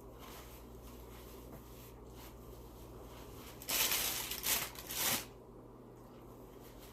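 Food packaging crinkling in a few quick bursts, lasting about a second and a half just past halfway.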